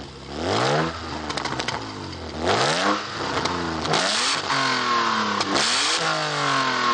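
BMW E36's engine and exhaust revved repeatedly, in blips that rise and fall in pitch, several in a row. The recording is heavily distorted because the old microphone is overdriven.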